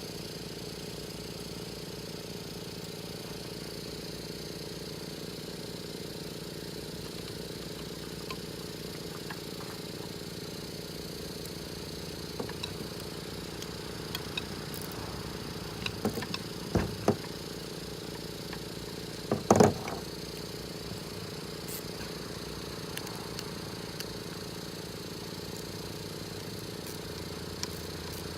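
A steady mechanical hum, with a few sharp metallic clanks of turbo parts and tools being handled about halfway through, the loudest two in quick succession and then another a couple of seconds later.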